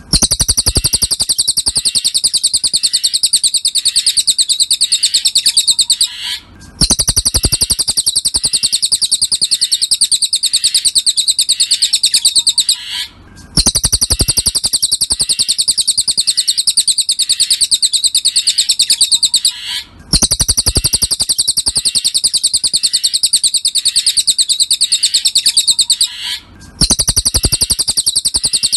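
Cililin songbird singing a fast, dense trill of high chirps in phrases about six and a half seconds long, each broken off by a brief pause, repeated four times like a looped tutor recording.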